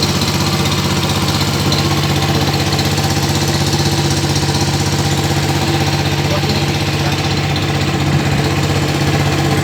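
Boat engine running steadily with a fast, even chugging beat that does not change.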